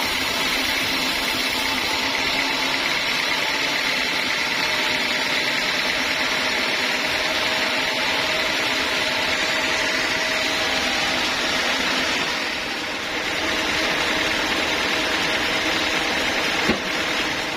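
Homemade bandsaw mill running steadily, a continuous mechanical noise that dips briefly about two-thirds of the way through, with one sharp knock near the end.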